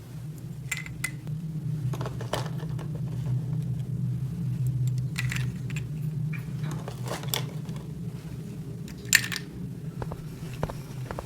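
Scattered light clicks and taps of small plastic toy pieces being handled, with one sharper click about nine seconds in, over a steady low hum.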